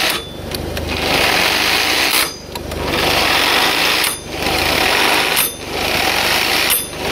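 Impact wrench hammering the scooter's variator nut tight, in four bursts with short pauses between them.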